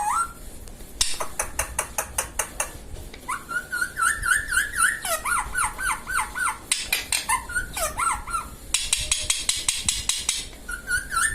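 Indian ringneck parrot making bursts of rapid clicks and taps, and a quick run of about eight short, repeated chirping calls in the middle, with another brief call near the end.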